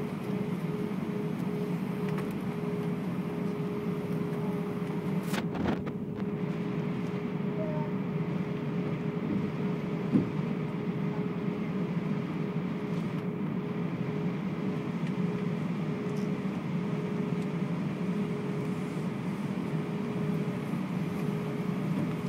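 Airbus A320 cabin noise: the jet engines and rushing air make a steady drone with a steady hum through it. A single brief knock sounds about ten seconds in.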